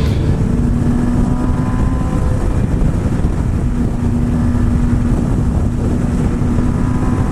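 Motorcycle engine running at a steady cruising speed on the freeway, with wind rushing over the helmet microphone.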